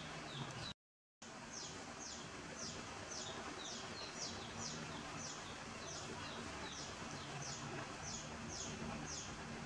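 Small bird chirping over and over in short, falling notes, about two a second, over a steady background hiss. The sound drops out completely for half a second about a second in.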